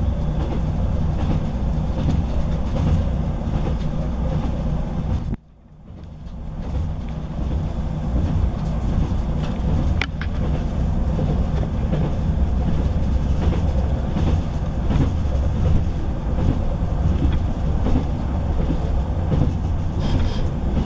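Cabin noise of a Class 158 diesel multiple unit running at speed: a steady rumble of the underfloor engine and the wheels on the rails. About five seconds in the sound cuts out abruptly and comes back up over a second or so, and there is a single sharp click about halfway through.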